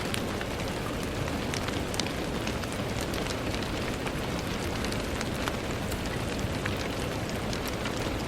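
Steady rain on a window: an even hiss with many scattered, irregular ticks of single drops hitting the glass.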